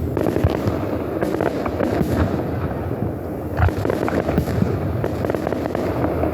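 Aerial fireworks bursting in a dense run of pops, crackles and bangs, with a stronger boom about three and a half seconds in.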